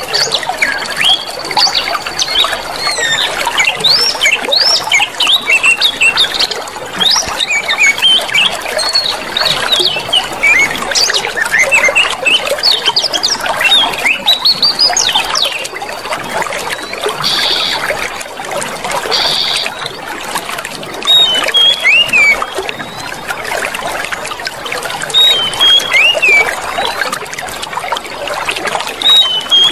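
Clear water trickling and splashing steadily, with many small birds chirping over it, the chirps busiest in the first half and sparser later. A thin, steady high tone runs under it for the first ten seconds or so.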